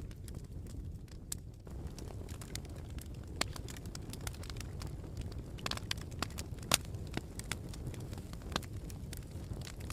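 Campfire crackling: irregular sharp pops and snaps over a steady low rumble of the burning fire, with the loudest pop about two-thirds of the way through.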